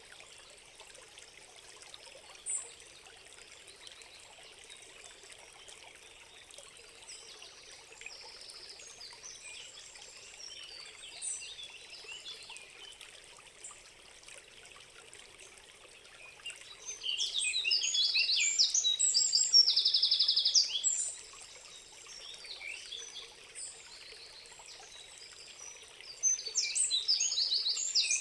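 Songbirds singing in a forest over the steady rush of a stream. The birdsong is sparse at first, then turns into loud bursts of rapid trilling and chirping from a little past halfway to about three-quarters of the way through, and again near the end.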